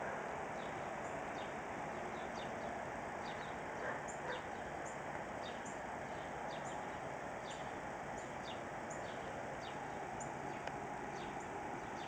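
Small birds chirping over and over in short, high, falling notes, over a steady background hum.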